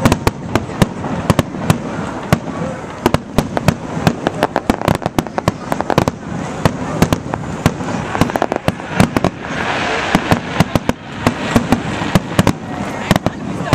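Aerial fireworks display: a rapid barrage of shell bursts, many sharp bangs in quick succession over a continuous crackle.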